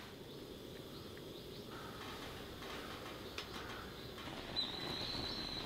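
Quiet outdoor ambience with faint bird calls. About four and a half seconds in, a thin high whistling call starts and is held for a couple of seconds.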